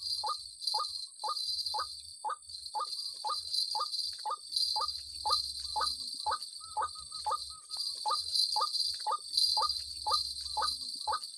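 White-breasted waterhen (ruak-ruak) calling in a fast, even series of short downward-sliding notes, about two to three a second, over a steady high drone of insects.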